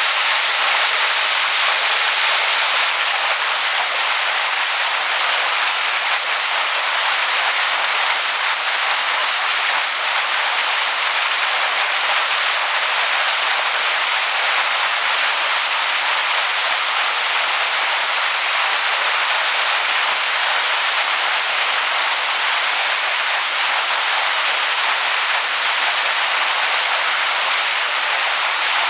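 Waterfall splashing onto rocks: a steady, hissing rush of falling water with most of its sound high up and little low rumble.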